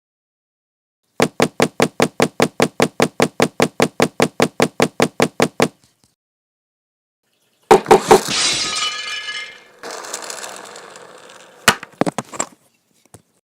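Sound effects: a fast, even run of clicks, about five a second, lasting some four seconds. After a pause come a few sharp hits and a breaking crash with a clinking, shattering tail, then a couple of last knocks.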